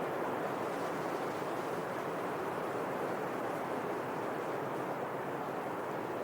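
Steady wind blowing through palm fronds, a continuous even rustle with no pauses or gusts standing out.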